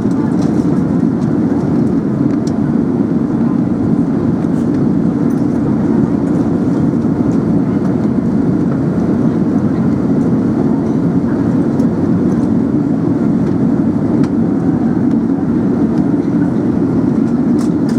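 Steady cabin noise of an Airbus A380 in flight: a constant low rumble of airflow and engines heard from inside the passenger cabin.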